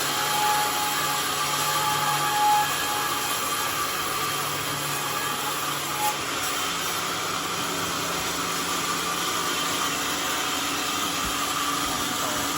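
Homemade sawmill running with a steady mechanical noise and a low hum that shifts slightly about halfway through.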